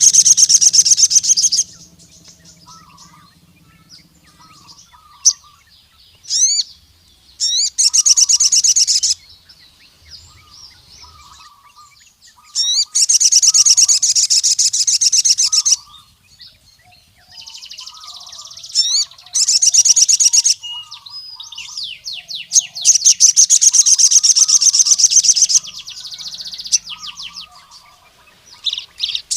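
Crimson sunbird (sogon) singing: repeated bursts of fast, high trilled song lasting one to three seconds each, separated by single rising chirps. Fainter lower chirps sound between the bursts.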